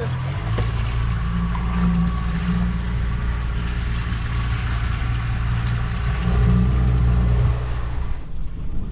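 Small fishing boat's motor running steadily while trolling, with wind and water noise over it; it gets a little louder about six seconds in and drops away near the end.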